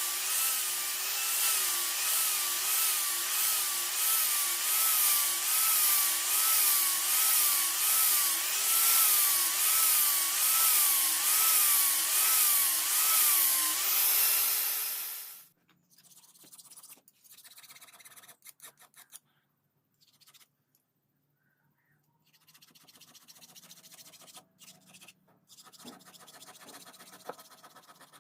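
An electric grinder running under load on metal, its pitch dipping and recovering about once a second as the work is pushed against it. It stops suddenly about 15 seconds in, leaving faint, intermittent scraping and rubbing.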